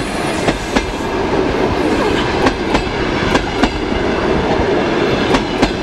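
Passenger train coaches rolling past close by: a loud, steady rumble of steel wheels on rail, with sharp clicks coming in pairs every second or two as the bogies' wheelsets cross rail joints.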